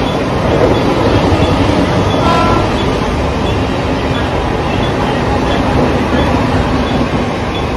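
Mumbai suburban electric local train moving along the platform: a steady, loud rumble of wheels on rail and running gear.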